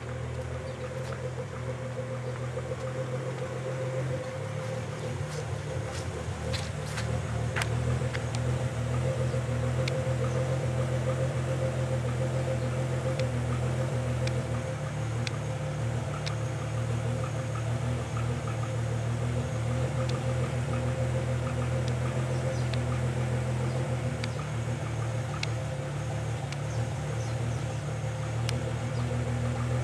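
Nissan 300ZX's V6 engine idling steadily, a low even hum that grows louder over the first eight seconds or so and then holds. A few light clicks come about six to eight seconds in.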